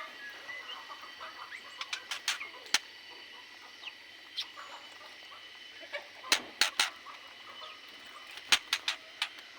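Aviary birds giving short, sharp calls, scattered at first and then a quick cluster of louder ones from about six seconds in, over a faint steady high background tone.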